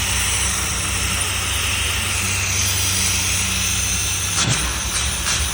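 A 1984 car's engine idling steadily but too high, at about 1400 rpm, while it warms up after its first start in over a year, with a steady hiss over it. A few short clicks come near the end.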